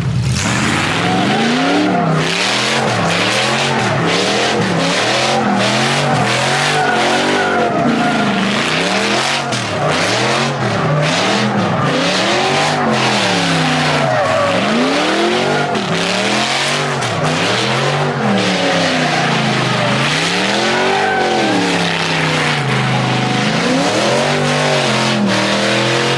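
Truck engine revving up and down over and over, its pitch rising and falling about every one to two seconds, over a steady hiss of noise.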